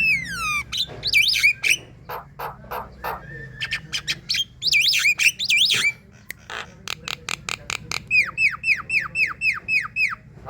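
Javan myna singing a busy, varied song: harsh clicking and chattering notes mixed with loud whistled glides up and down. Near the end it gives a quick run of about eight downward-sweeping whistles, about four a second.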